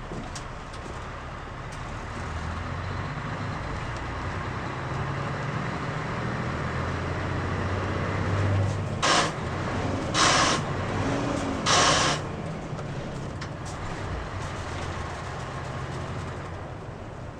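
Mitsubishi Fuso KL-MP37JK city bus's diesel engine running under way, its hum building and then easing off. Three short sharp hisses of air from the air brakes come about nine, ten and twelve seconds in, the loudest sounds here.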